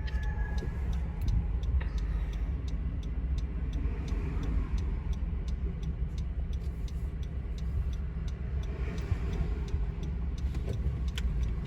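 Car interior with a steady low rumble from the engine and road, and a turn-signal indicator ticking evenly.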